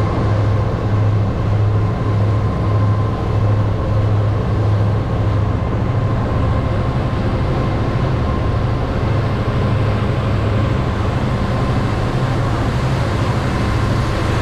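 Cruise boat's engine running: a steady, loud low drone that pulses gently for the first few seconds, with a continuous rushing noise over it.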